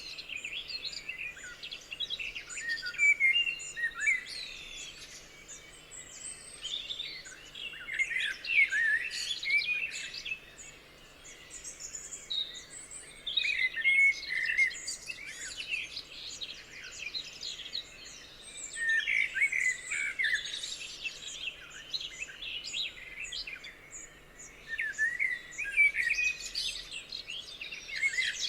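Several songbirds singing at once: overlapping high chirps, whistles and quick trills that come in bouts every few seconds.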